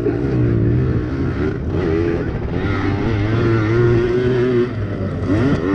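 Yamaha PW80 two-stroke pit bike engines racing, the engine pitch wavering up and down as the throttle is worked.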